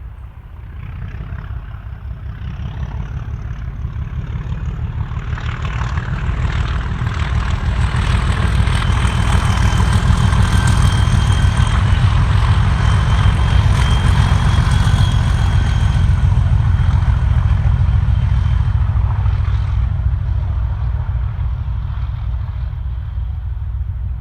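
Pair of Class 37 diesel locomotives with English Electric V12 engines passing under power, a heavy low engine throb with a high turbocharger whistle over it. It swells over about ten seconds, is loudest mid-way and slowly dies away.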